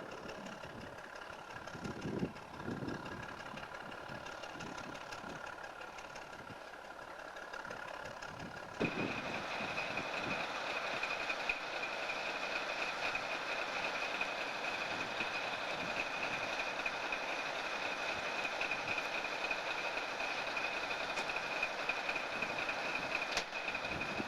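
Diesel switcher locomotive (USAF Engine 4040) running. About nine seconds in it suddenly gets louder and a steady high whine comes in and holds.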